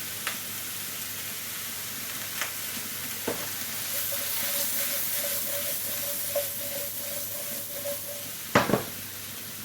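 Onions and mushrooms sizzling steadily in a hot frying pan, with a few sharp knocks of a utensil stirring them against the pan, the loudest pair near the end.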